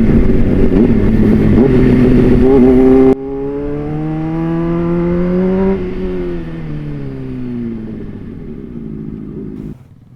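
Several sport motorcycle engines revving together in a loud, dense chorus. About three seconds in it changes abruptly to one engine whose pitch climbs slowly and then falls away, cutting off shortly before the end.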